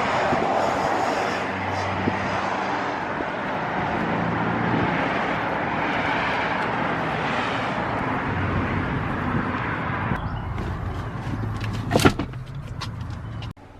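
Vehicle running on the road, a steady rumble with a low engine hum. About ten seconds in the noise changes and thins out, and near the end there is one sharp knock.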